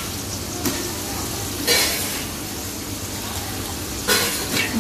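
Mixed vegetables sizzling as they fry in oil and masala in a large aluminium cooking pot, just added for a 2–3 minute sauté. Three brief louder swishes stand out, about a second, two seconds and four seconds in.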